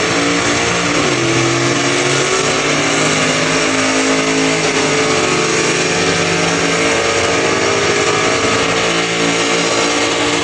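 A car's engine held at high revs in a burnout, its pitch steady and drifting only slightly, over a dense hiss of noise.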